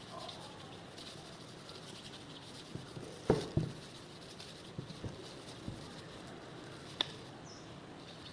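Scattered light knocks and taps over quiet room tone: a pair of louder knocks a little after three seconds, a few softer taps around five seconds, and one sharp click about seven seconds in.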